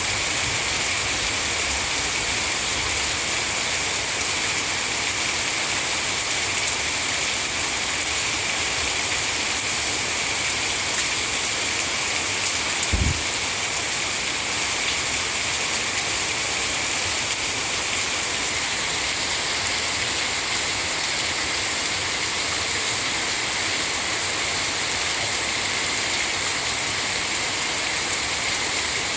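Heavy rain falling steadily, a dense even hiss, with one brief low thump about halfway through.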